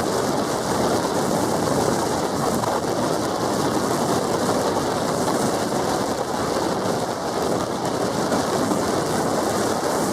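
Steady rushing wind and road noise from a moving vehicle, with no distinct engine note or other event standing out.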